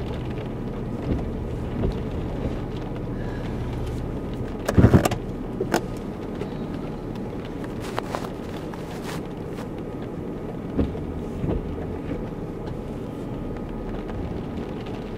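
Vehicle engine running steadily, heard from inside the cabin, with a few short knocks and thumps; the loudest comes about five seconds in.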